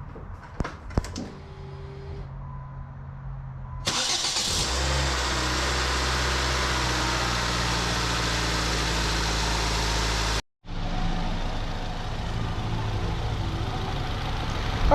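A 2006 Nissan Sentra's four-cylinder engine starting up about four seconds in after a few light clicks, then running steadily at idle while its freshly refilled cooling system bleeds. After a brief break, the engine carries on idling a little quieter.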